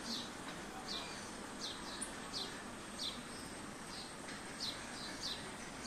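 A small bird chirping: a short, high, falling chirp repeated about every three quarters of a second, over a steady background hiss.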